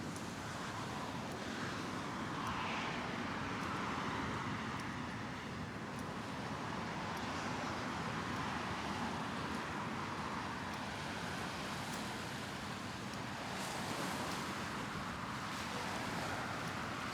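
Steady rush of road traffic passing, swelling and fading slowly as vehicles go by.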